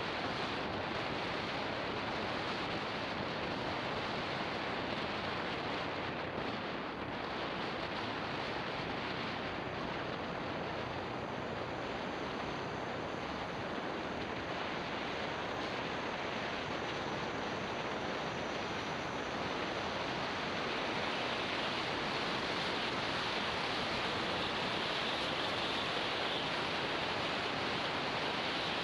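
Steady rushing wind noise on an action camera's microphone while riding a motorbike, with no distinct engine note standing out above it.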